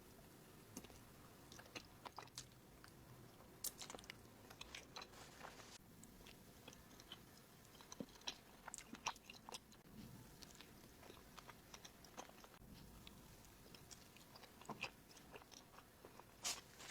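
Faint, soft chewing of a sticky rice cake close to the microphone, with scattered small mouth clicks and lip smacks.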